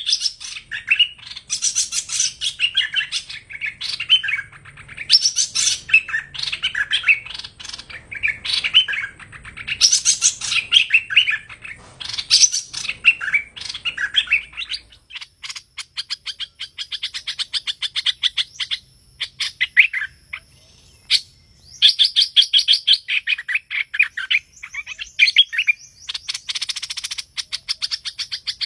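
Hoành hoạch songbird singing: phrase after phrase of rapid, chattering chirps and whistles, broken by brief pauses.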